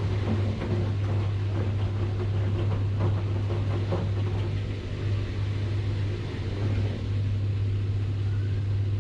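Washing machine running: a steady low hum with faint, irregular rattles and knocks over it.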